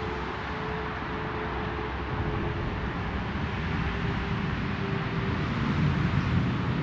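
Twin-turbo Audi R8 V10 on the move: a low engine hum under a steady rush of road and wind noise, growing slightly louder toward the end.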